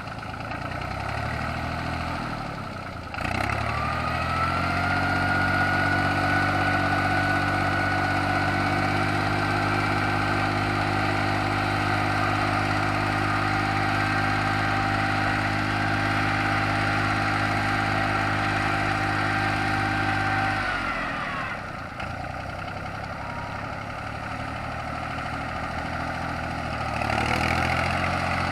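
Yanmar YM3000 tractor's diesel engine running. It revs up about three seconds in and holds steady with a whine over it, then drops to lower revs around twenty-one seconds and picks up again near the end.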